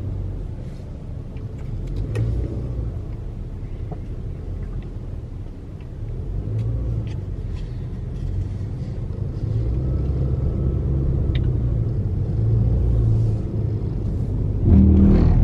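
Car driving along a highway, heard from inside the cabin: a steady low hum of engine and tyre noise.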